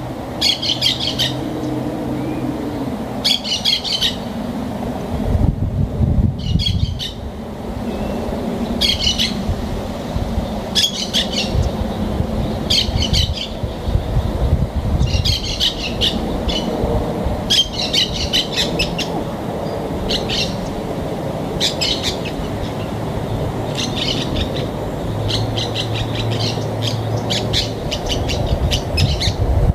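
A bird calling in short, harsh bursts, about one every two seconds, over a steady low rumble.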